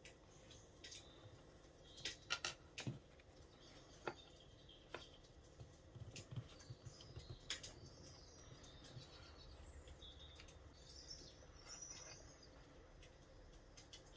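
Faint birds chirping, with scattered sharp clicks and crackles, a cluster of them in the first half.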